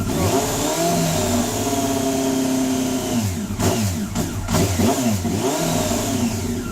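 Honda CBR954RR inline-four engine just after a hard start, unable to hold idle on its own, revved up and down again and again with the throttle to keep it from stalling. A steadier stretch of higher revs comes in the middle, followed by a run of quick blips.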